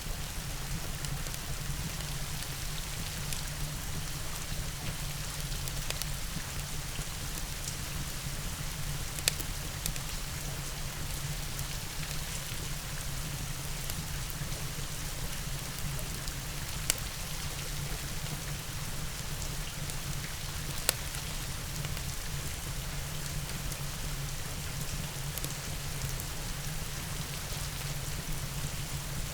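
Steady rain mixed with a crackling wood fire. Three sharp pops stand out over the hiss: about a third of the way in, just past the middle and about two-thirds in.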